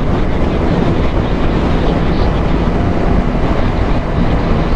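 Steady roar of wind on the microphone of a moving motorcycle, with the Kawasaki H2's supercharged inline-four engine running under it.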